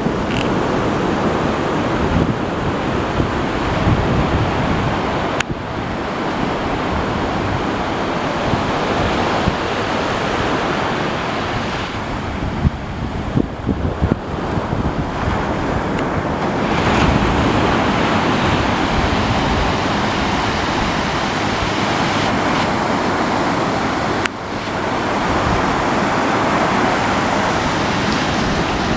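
Ocean surf breaking and washing onto a beach: a continuous rush of waves that swells and eases, with wind on the microphone.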